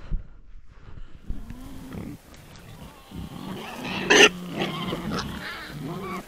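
Wild boar grunting, several animals calling on and off, with one louder, sharper call about four seconds in.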